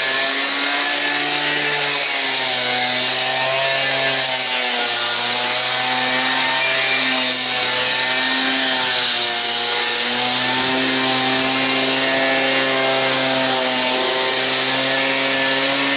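Concrete-cutting saw running as it cuts a concrete kerb and footpath: a steady motor whine over the hiss of the blade, its pitch dipping and recovering every few seconds as the blade loads in the cut.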